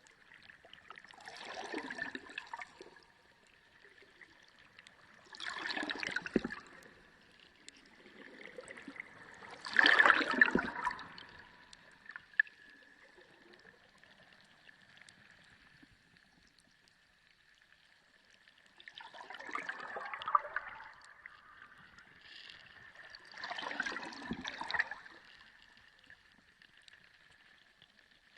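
Underwater sea recording: five surges of water noise, each a second or two long, the loudest about ten seconds in, with quieter water between them and a faint steady high tone underneath.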